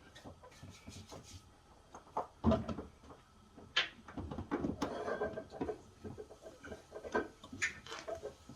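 Scattered knocks, clicks and scrapes of refrigerator parts being handled and fitted, with the loudest thump about two and a half seconds in.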